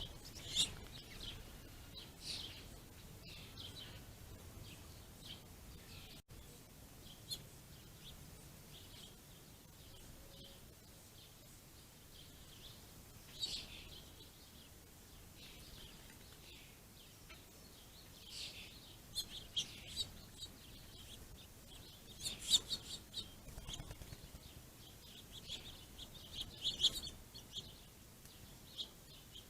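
Small songbirds chirping in short, scattered bursts, with busier clusters of calls in the second half, over faint background noise.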